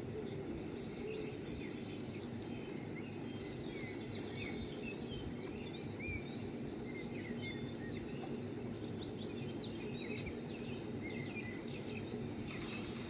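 Birds chirping and twittering in many short, quick calls over a steady low background hum.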